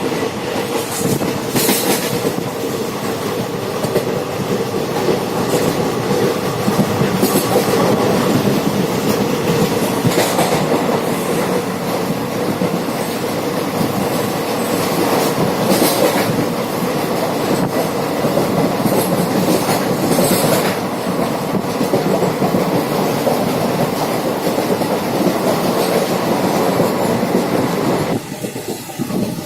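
A train running on the rails, a steady rumbling noise with a steady hum and a few brief hissing swells, dropping off near the end.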